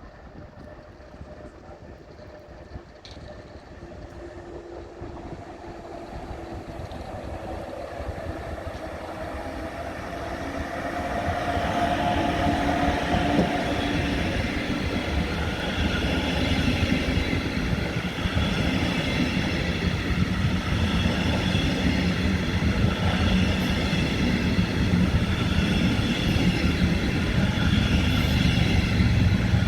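A train approaching and running through the station, growing louder over the first ten seconds or so and then staying loud. A deep rumble carries a steady high whine.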